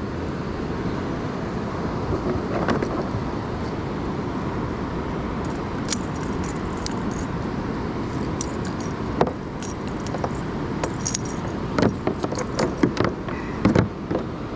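Light metallic clinking and rattling of fishing tackle while a freshly landed bass is handled and unhooked. The clicks are sparse at first and come thicker near the end, over a steady background rush.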